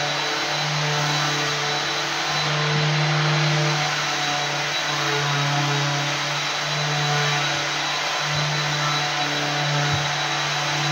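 Electric floor machine's motor running steadily, a low hum over a broad hiss with a thin, steady high whine.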